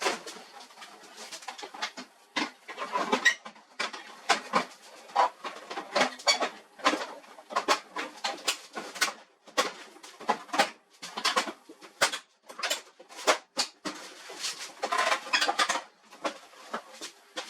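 Irregular clicks and knocks of hard parts being handled, with a denser rattling stretch about three seconds in and another near the end.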